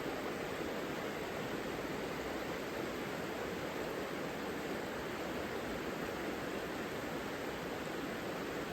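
Savica river water flowing: a steady, even rush of water with no single sound standing out.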